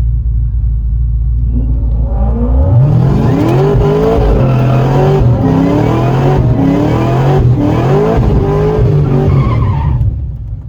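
Cadillac CTS-V wagon's supercharged V8 heard from inside the cabin on a drag-strip pass: idling low at first, then at full throttle from about two and a half seconds in, its pitch rising and dropping back several times as it shifts up through the gears. It stops suddenly near the end as the driver lifts off.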